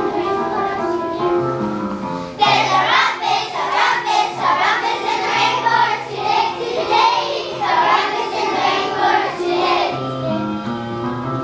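A group of children singing together over a backing track or keyboard accompaniment. The accompaniment plays alone at first, and the voices come in about two seconds in and drop out near the end.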